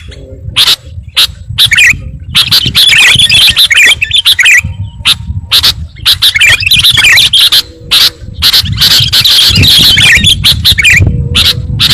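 Kutilang (sooty-headed bulbul) lure call: loud bursts of rapid chattering and chirping bird notes, repeated over and over with short gaps.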